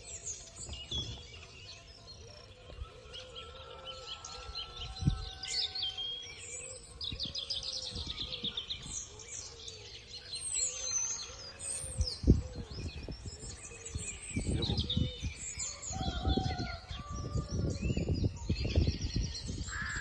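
Several birds chirping and trilling continuously in the bush. A few dull low thumps, the loudest about twelve seconds in, and a stretch of low rumbling noise in the last few seconds.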